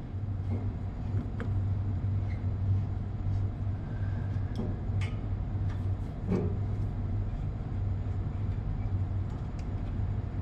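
Steady low machinery hum, with a few light, scattered clicks and taps of tools or metal parts.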